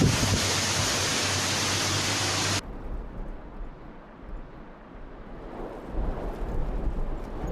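Loud, steady hiss of a heavy storm downpour that cuts off suddenly about two and a half seconds in, giving way to a quieter, gusty wind rumble on the microphone.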